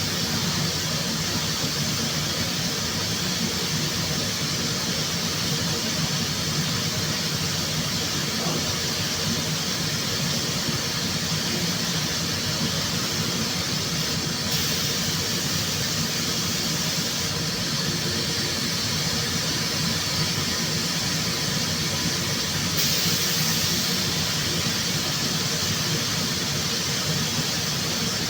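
Steady compressed-air hiss over a low machine hum. The hiss steps louder about halfway through and again near the end.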